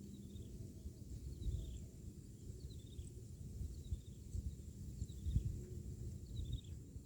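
A bird calling over and over in short falling phrases of a few quick notes, about one phrase a second, over a low rumble of wind on the microphone.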